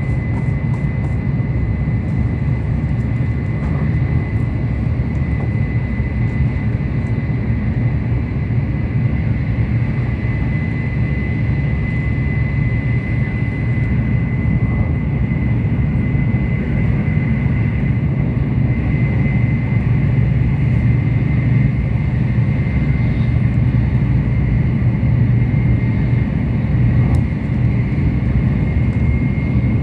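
Tokaido Shinkansen running at speed, heard from inside the passenger cabin: a steady low rumble with a thin, steady high whine over it.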